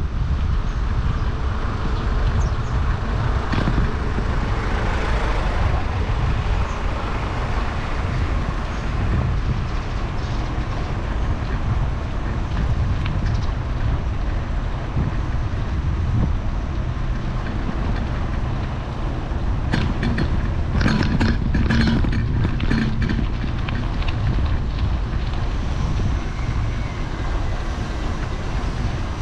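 Steady low rumble of wind and road noise on the microphone of a bike in motion, with a short run of clicks and rattles about twenty seconds in.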